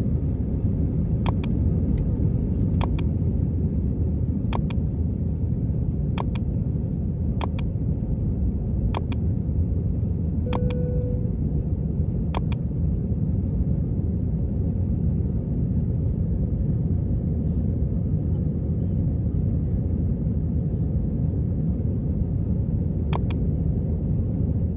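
Steady low rumble of a moving vehicle heard from inside, with a faint click about every one and a half seconds over the first half and a brief beep about ten seconds in.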